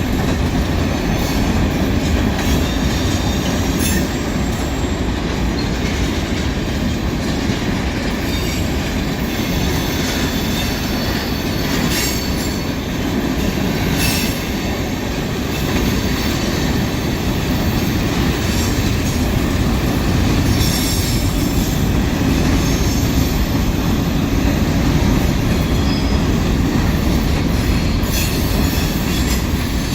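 Freight cars of a manifest train rolling past: a steady rumble of steel wheels on rail, with scattered clacks over the rail joints and faint high wheel squeal now and then.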